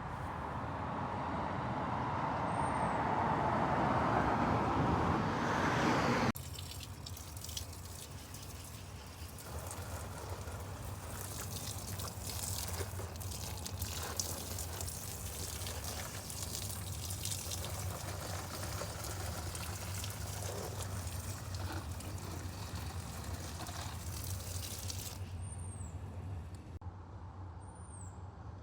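Outdoor morning ambience with a few short, high bird chirps near the start and again near the end. A rushing noise, like a passing vehicle, swells over the first six seconds and cuts off abruptly. A steady hiss with faint crackle, like trickling water, follows, over a low steady hum.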